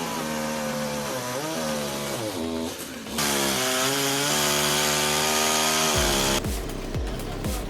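Chainsaw engine running and revving, its pitch rising and falling with the throttle, broken by abrupt cuts between clips. Near the end it gives way to a different sound that pulses about twice a second.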